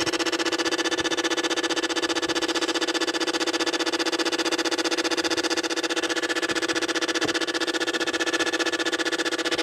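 The BMW E60 535's EGR electronic throttle body buzzing steadily after the engine has been switched off, a constant electric hum with a fast flutter. The noise is the sign of a failed EGR throttle actuator.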